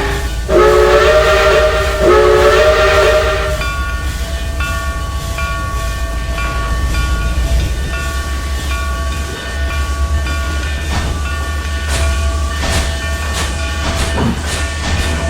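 Steam-train whistle sounding two chord-like blasts of about a second and a half each, followed by a train running with a steady layered tone and a low hum. Sharp clicks come in near the end.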